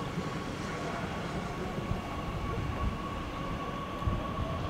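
Train moving at the station: a low rumble with a steady high whine, joined near the end by a second whine that rises in pitch.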